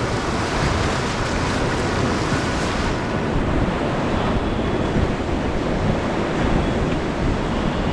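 Whitewater of a river rapid rushing steadily around the raft, with wind noise on the microphone.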